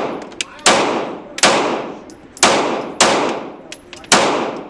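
Gunshots on an indoor shooting range, five in a row at an uneven pace of roughly one a second. Each shot rings out and fades in the room's echo, with faint clicks between the shots.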